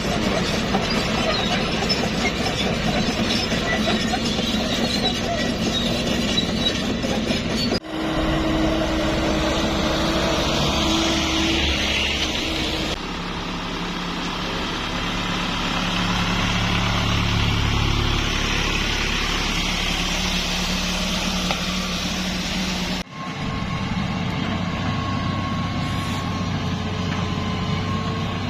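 Heavy construction machinery and truck engines running, heard across several edited clips that change abruptly about 8, 13 and 23 seconds in.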